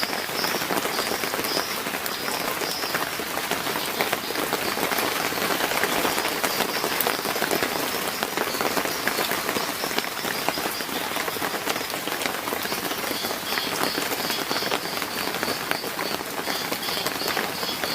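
Heavy rain pouring steadily, a dense even hiss of drops striking surfaces. Faint high chirping shows through near the start and again near the end.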